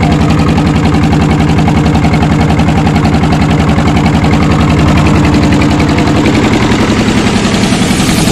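Boat engine running steadily at a constant speed, a fast, even low-pitched chugging.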